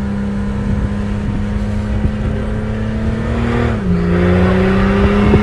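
Volkswagen Amarok's stage-2 tuned 3.0 V6 turbo-diesel accelerating, its pitch climbing slowly, dropping at a gear change about four seconds in, then climbing again and growing louder.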